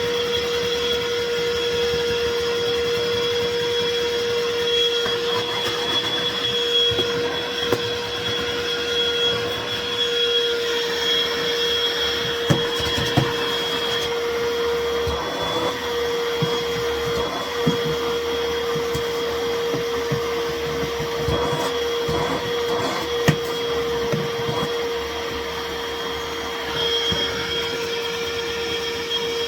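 Black & Decker Dustbuster handheld vacuum running steadily with a high whine, sucking up spilled dust, with a few sharp clicks along the way.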